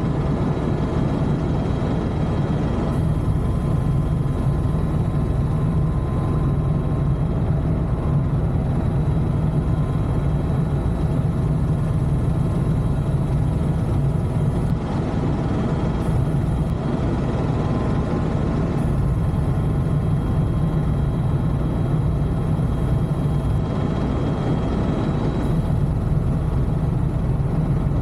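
Helicopter cabin noise in flight: a steady, loud drone of rotor and engine with faint steady whine tones above it.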